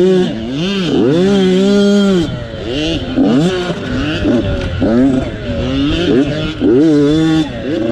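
Motocross dirt bike engines revving, their pitch climbing and dropping again and again as the throttle is worked.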